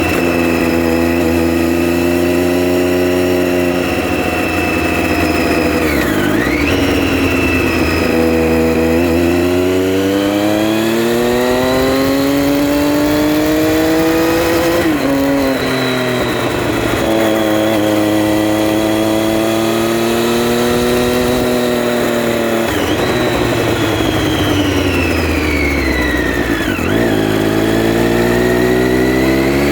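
Triumph Street Triple R's 675 cc inline three-cylinder engine running under way. The revs climb from about eight seconds in, drop sharply at a gear change near the middle, hold steady, dip briefly and climb again near the end.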